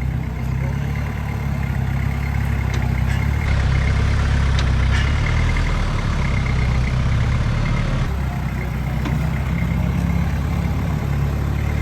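Off-road 4x4's engine idling steadily, getting a little louder a few seconds in.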